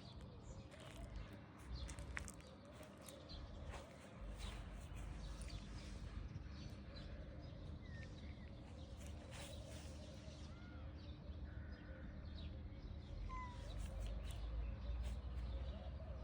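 Quiet outdoor ambience: a low rumble with scattered clicks and a few brief, faint bird chirps.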